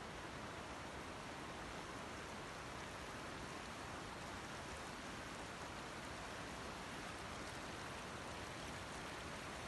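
Steady rain falling, a faint even hiss with no breaks.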